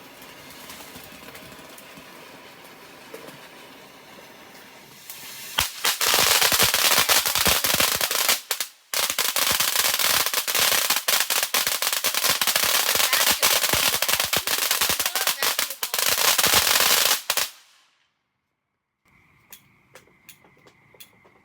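A crackling consumer firework going off: a quieter hiss for the first few seconds, then about twelve seconds of loud, dense crackling and popping that stops suddenly, followed by a few faint pops near the end.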